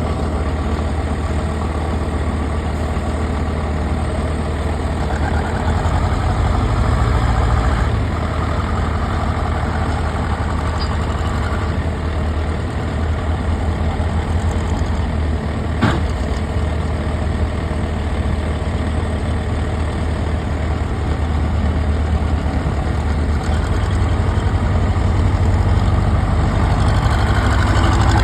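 Tractor engine running steadily at a low idle, with a single sharp click about halfway through.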